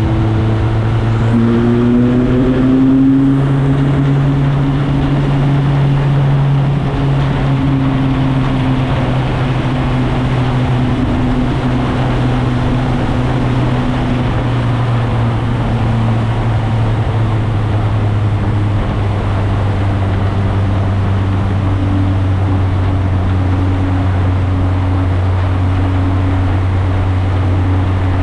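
Motorcycle engine running on the road, rising in pitch over the first few seconds as it accelerates, then holding a steady cruising note under heavy wind and road noise.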